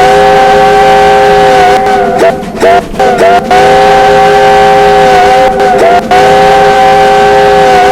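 Steam locomotive's chime whistle blown loudly in long blasts. The sustained chord is broken by several short gaps a couple of seconds in and twice more past the middle, with the pitch sagging briefly at each break.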